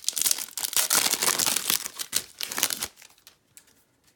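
A 2018 Topps Update foil card pack wrapper being torn open and crinkled for about three seconds, then a few faint ticks as it dies away.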